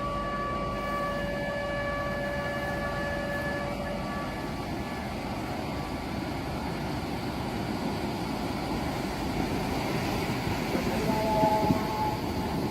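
A steady outdoor warning siren tone that fades out about four seconds in, over a constant noisy outdoor rush.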